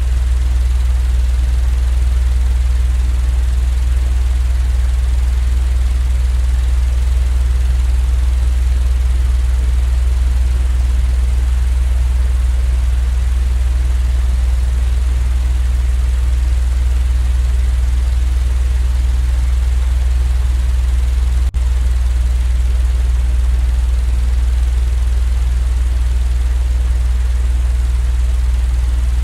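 Steady low droning rumble with an even hiss above it: a continuous machine white-noise track. It dips briefly about two-thirds of the way through.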